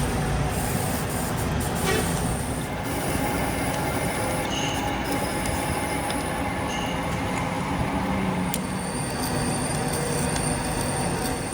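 Metalworking machinery running steadily in the workshop, a dense grinding-rumbling noise of metal being worked, with two short high squeals about four and a half and seven seconds in.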